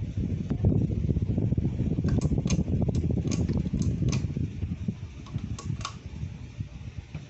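30-inch Better Homes & Gardens ceiling fan running, a low fluttering whoosh of moving air, with several sharp clicks through the middle. It gets quieter near the end.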